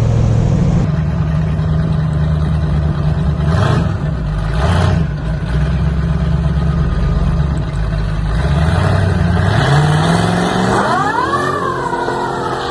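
Twin-turbo 500ci V8 of a Ford Cortina drag car running steadily, with two short bursts of noise about four and five seconds in. Near the end the revs climb sharply, then fall away.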